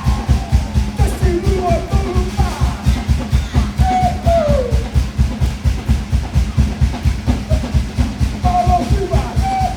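Polynesian show drumming: a fast, even drumbeat of about five strokes a second, with voices calling out over it in short falling cries.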